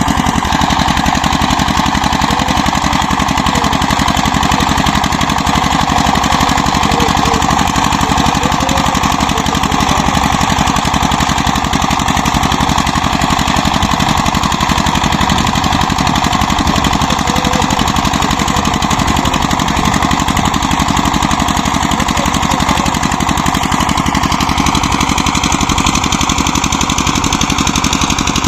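Diesel Peter engine running steadily under load, driving the new tubewell's pump, with an even, fast firing beat that does not change.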